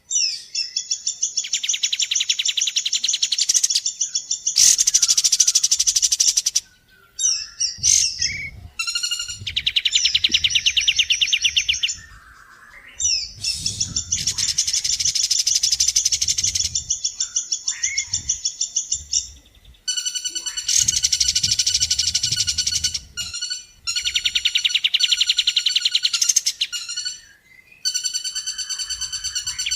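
Birdsong training recording of kapas tembak and woodpecker calls: long bursts of very fast, rattling trills lasting several seconds each, broken by short pauses and brief chattering notes.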